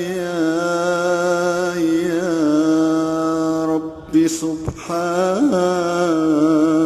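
A male voice chanting an Arabic supplication in long, drawn-out held notes over a steady low drone, with a short break about four seconds in before the next held note.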